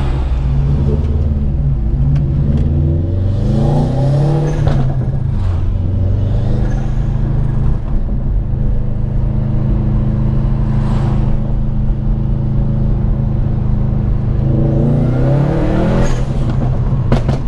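Subaru WRX STI's turbocharged flat-four engine heard from inside the cabin while driving. Its pitch rises under acceleration about three seconds in and again near the end, and holds steady at a cruise in between.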